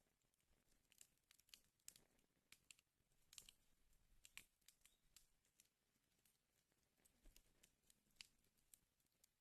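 Wood fire in a fireplace crackling faintly, with scattered sharp pops and snaps at irregular intervals.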